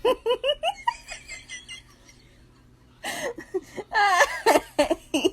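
A person laughing and giggling in quick bursts, then pausing for about a second and laughing again.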